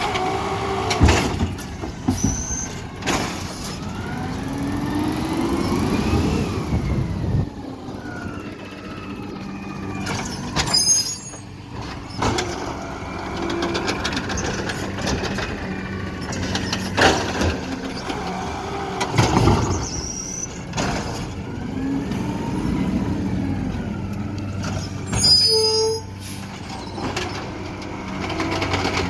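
Garbage truck at work: its diesel engine revs up and falls back in long swells, with sharp knocks and clanks, air-brake sounds, and short high squeals twice.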